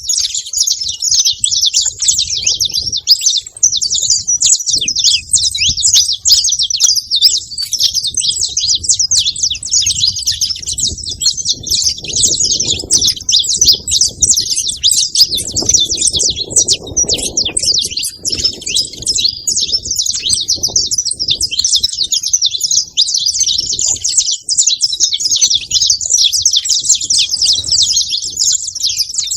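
Saffron finches chirping and chattering at a feeder, a dense, unbroken stream of rapid high-pitched chirps.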